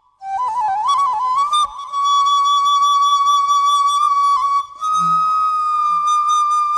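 Music: a slow melody on a flute-like wind instrument, with a quick run of ornamented notes about a second in, then long held notes broken briefly near the five-second mark.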